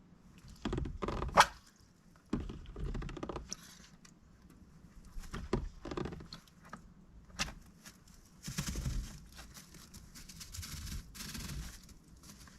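Mallard drake moving about in its indoor pen: irregular bursts of pattering, thunks and scraping, with a sharp knock about a second and a half in.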